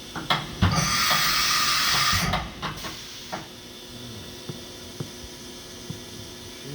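Hurco VM10i vertical machining center in its warm-up cycle: a few clicks, then a loud hiss of air for about a second and a half that cuts off, followed by scattered light knocks and clicks over a steady low hum.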